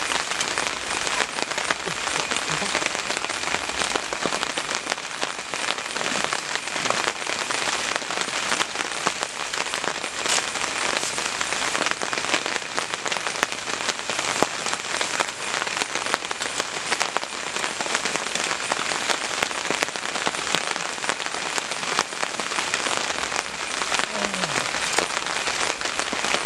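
Steady rain falling on tent fabric and the surrounding forest: a dense, even hiss with many separate drop hits.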